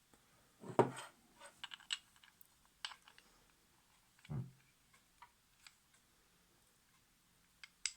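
Scattered light clicks and clinks of metal sewing-machine parts and tools being handled, with two louder knocks, about a second in and past four seconds.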